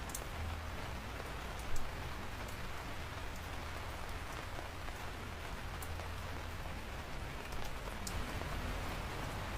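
Steady rain falling: an even hiss with single drops ticking sharply now and then, and one louder tap just under two seconds in.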